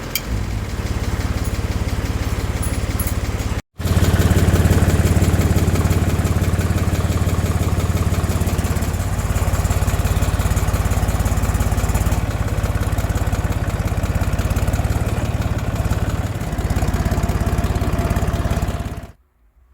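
Valmet 361D tractor's three-cylinder diesel engine running steadily with an even chugging beat as the tractor is driven. There is a brief break about four seconds in, and the sound cuts off suddenly near the end.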